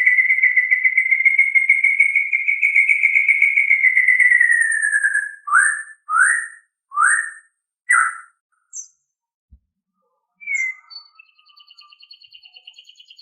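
White-rumped shama singing: a long fluttering whistle that slides slightly lower, then four short rising whistled notes in quick succession, a few scattered short notes, and a faint high trill starting near the end.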